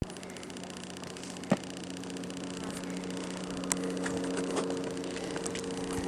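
Rapid, even ticking from an Olympus M.Zuiko 17mm f/1.8 lens, picked up by the camera's own microphone: an unwanted tick noise the owner wants to get rid of. A steady low hum runs under it, with a few louder clicks.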